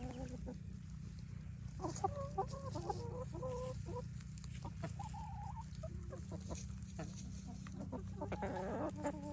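Backyard hens clucking and giving short murmuring calls as a flock, over a steady low rumble.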